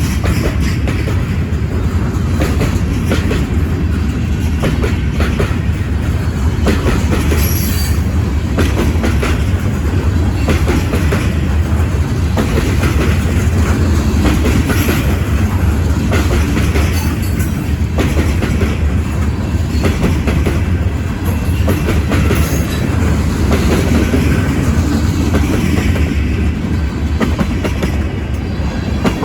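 CN freight train rolling past: a steady low rumble with the wheels clicking over rail joints, and a few brief high wheel squeals.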